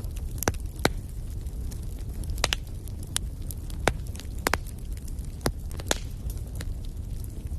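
Wood fire crackling in a fireplace: irregular sharp pops and snaps, several louder ones, over a steady low rumble of the flames.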